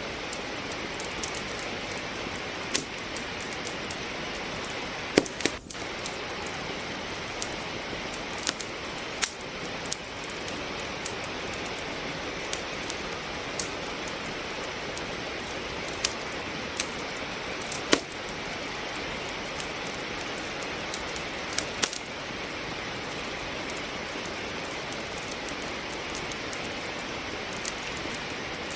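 Steady rain hiss with a wood fire crackling in a fireplace: scattered sharp pops and snaps at irregular intervals, the loudest about five seconds and eighteen seconds in.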